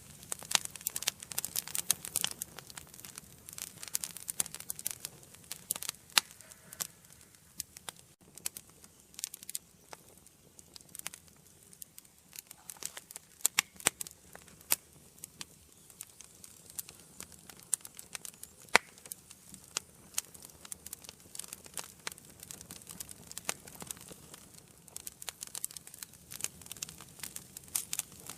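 Wood fire burning in an indoor fireplace, crackling and popping irregularly over a soft hiss, with denser crackling near the start and end and a sparser stretch in the middle.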